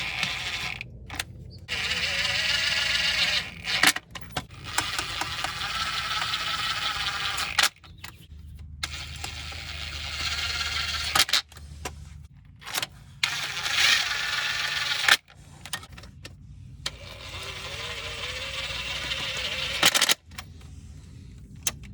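A high, wavering whine like a small motor, heard in several short pieces with abrupt cuts between them and a few sharp clicks.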